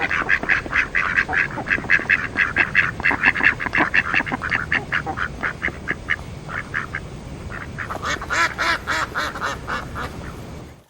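Domestic duck quacking in fast runs of several quacks a second. There is a short break about seven seconds in, then a second run.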